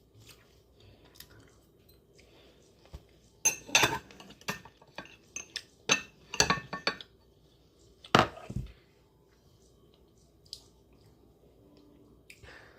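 A spoon clinking and scraping against a bowl: a run of quick knocks and scrapes a few seconds in, then quiet.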